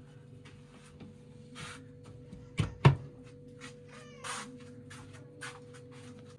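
Objects being handled: a series of knocks and clicks, the two loudest close together about two and a half seconds in, with a short rising squeak just after four seconds, over a low steady hum.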